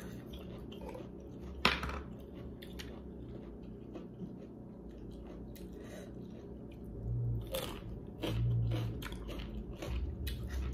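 A person chewing and crunching crisp raw vegetables, with many small crunchy clicks and one sharper knock about a second and a half in.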